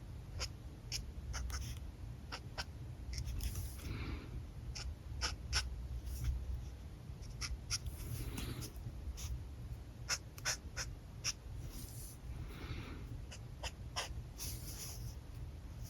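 Alcohol markers stroked across paper in short hissing passes, with many sharp clicks scattered in between.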